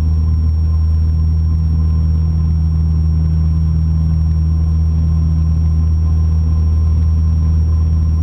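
Cessna 172's four-cylinder piston engine and propeller at full climb power, a steady low drone that holds unchanged.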